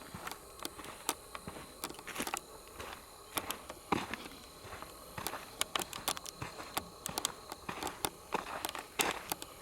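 Footsteps crunching through dry leaves and brush at a walking pace: a run of irregular crackling steps, with a faint steady high-pitched tone behind them.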